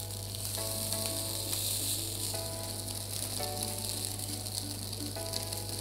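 Slices of Spam sizzling steadily in a hot grill pan as they are turned with tongs.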